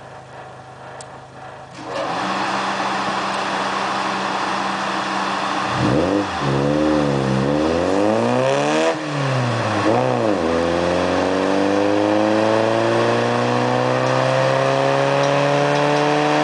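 Honda Civic EK hatchback engine running on a chassis dynamometer: it gets suddenly louder about two seconds in, revs up and down several times, then pulls steadily under load with its pitch climbing slowly through the revs.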